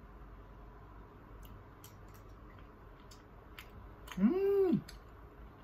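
A person chewing a mouthful of cheese-topped tteokbokki, with faint scattered mouth clicks, and about four seconds in a short hummed 'mmm' that rises and falls in pitch.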